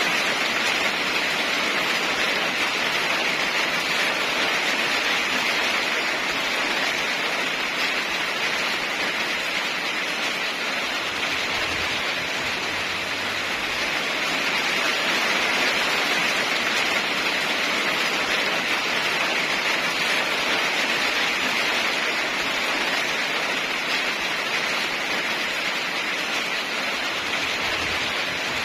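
Heavy rain falling steadily: a dense, even hiss that slowly swells and eases.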